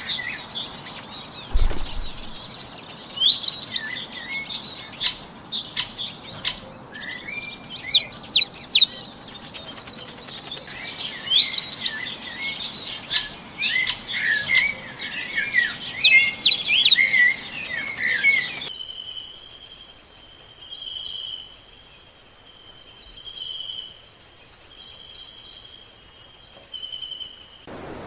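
Birds chirping and calling in a dense chorus of quick chirps and short whistles over a soft background hiss. About two-thirds through, this cuts abruptly to a steady, high-pitched trill with a lower note repeating every second or so.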